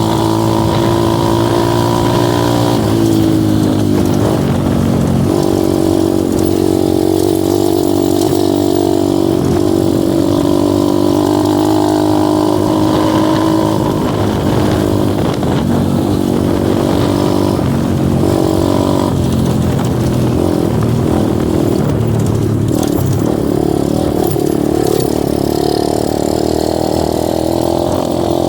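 Dirt bike engine running continuously, its pitch rising and falling as the throttle and gears change.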